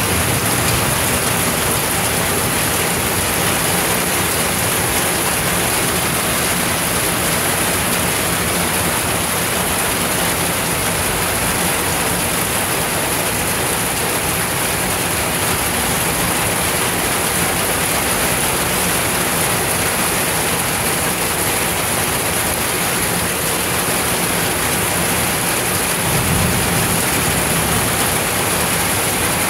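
Heavy rain pouring steadily on the street and yard, a dense, even hiss. About three seconds before the end, a brief low rumble of thunder rises under it.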